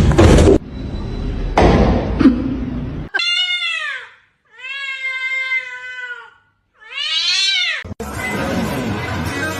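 A cat meowing three times, the middle meow long and level, the outer two rising and falling. A stretch of loud, noisy sound comes before the meows, and music with guitar starts near the end.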